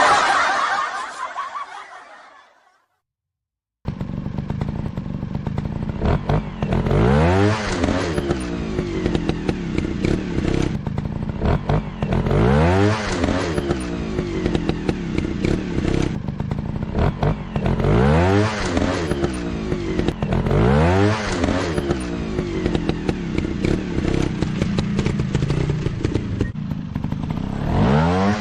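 A dirt bike engine comes in about four seconds in and runs with repeated throttle blips, its pitch rising and falling every few seconds. Before it, an earlier sound fades out and there is about a second of silence.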